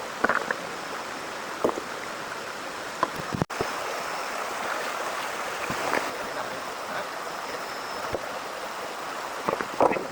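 Steady heavy rain, an even hiss with scattered sharp taps of drops. The sound drops out for an instant about three and a half seconds in and comes back slightly louder.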